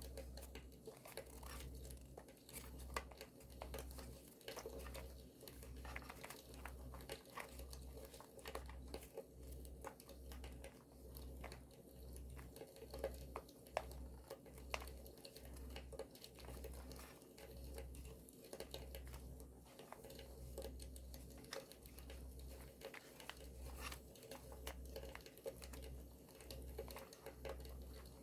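Close, quiet handling of paper while journaling: soft crinkling and rustling, with many small sharp crackles like those of a campfire.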